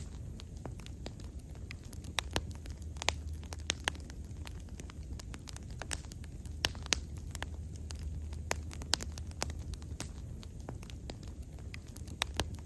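Wood bonfire burning, with irregular sharp crackles and pops from the burning wood over a steady low rumble of the flames.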